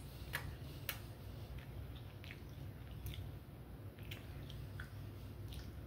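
A person chewing food with wet, smacking mouth clicks scattered through, over a low steady hum.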